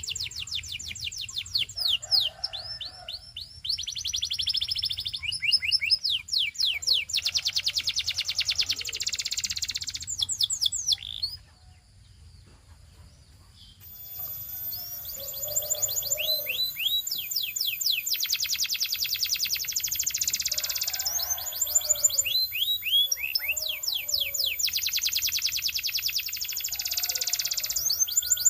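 Belgian canary singing: rapid rolling trills and fast runs of repeated downward-sweeping whistled notes, in long phrases. The song breaks off for about two seconds around halfway through, then resumes with a faint steady high whine behind it.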